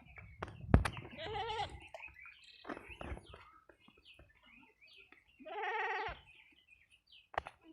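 An animal's calls: two short wavering cries, one about a second in and one about six seconds in, amid scattered clicks and knocks.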